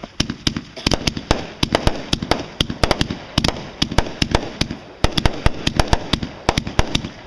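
Aerial fireworks going off in a rapid barrage: many sharp bangs and pops, several a second and unevenly spaced, with crackling between them.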